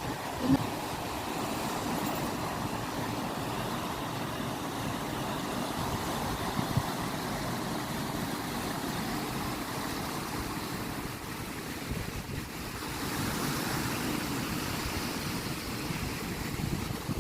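Ocean waves washing on the shore in a steady rush of surf, swelling as a wave washes in about three quarters of the way through. Two brief low thumps stand out, one near the start and one about halfway.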